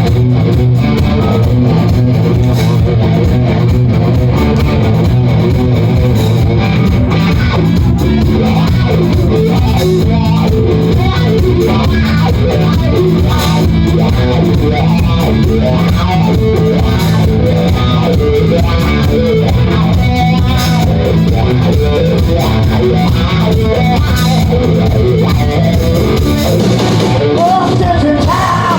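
Rock band playing live, electric guitar and bass over drums, loud and distorted as picked up by a mobile phone.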